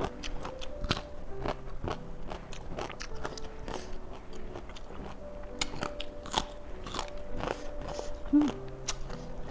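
Close-up crunching and chewing of raw vegetables, crisp bites coming one after another, with soft piano music underneath.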